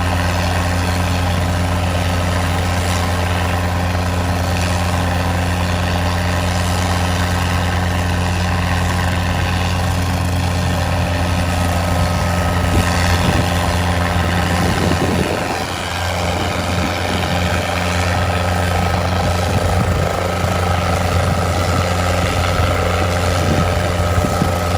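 Helicopter flying overhead: a loud, steady rotor and engine drone that dips briefly about fifteen seconds in.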